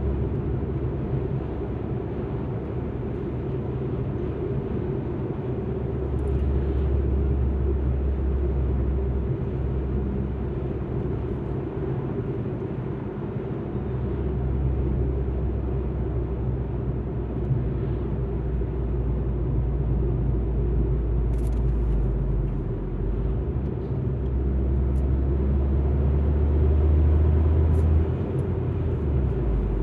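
Alfa Romeo MiTo on the move: steady engine and road rumble. The low engine drone swells over the last third and drops away shortly before the end.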